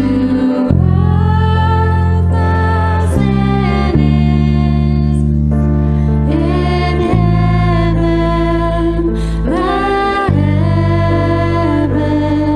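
Worship song: singing over sustained low instrumental chords that change about every three seconds.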